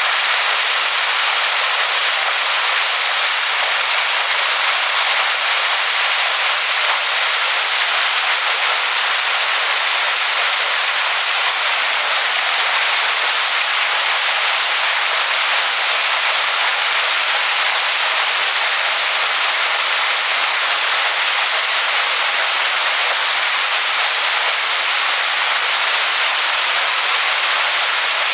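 Waterfall pouring onto rocks: a loud, steady hiss of falling water, bright and even, with little low rumble.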